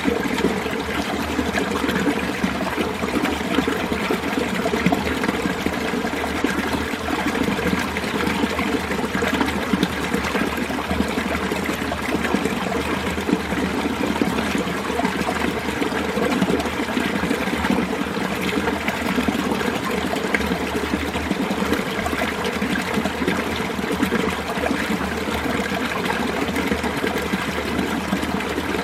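Mountain valley stream flowing and trickling steadily, an even rush of water with no breaks.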